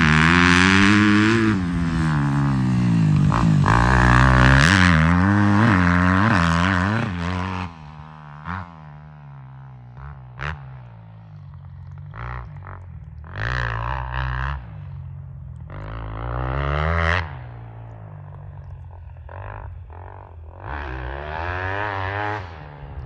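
Dirt bike engine revving, its pitch climbing and dropping again and again with the throttle and gear changes, loud for about the first seven seconds. After that it is fainter, with short bursts of throttle.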